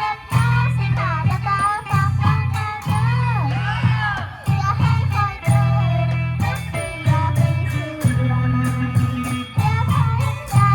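Live Isan pong lang ensemble music with a steady percussion beat and a heavy, sustained bass.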